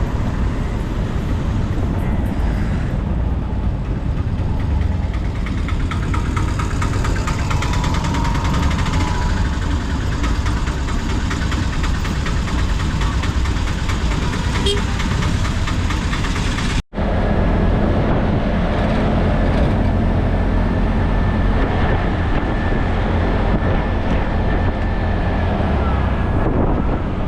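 Steady engine and road noise from riding in a tuk-tuk (auto rickshaw) through traffic. The sound breaks off for a moment about two-thirds of the way in, then carries on.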